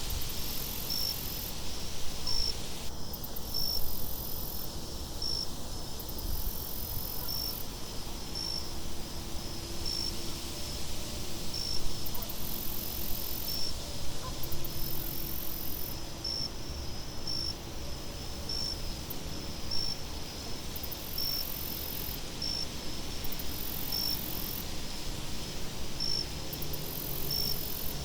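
Crickets chirping in a steady, evenly spaced rhythm, about one chirp a second, over a low rush of wind.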